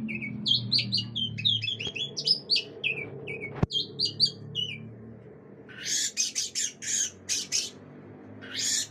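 Orange-headed thrush singing a rapid run of varied, slurred whistled notes, then breaking into a series of harsh rasping notes in the second half.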